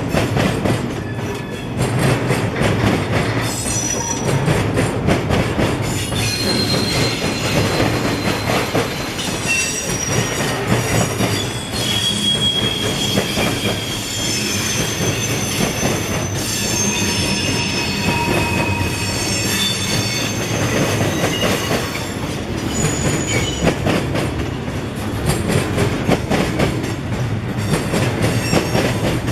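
A freight train's cars rolling past, their steel wheels squealing in high tones that shift and overlap, with a steady clatter of wheels clicking over the rail joints.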